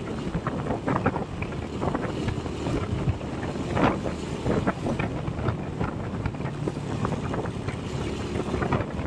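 Vehicle travelling on a road: steady engine and road noise with wind buffeting the microphone, and a few short knocks.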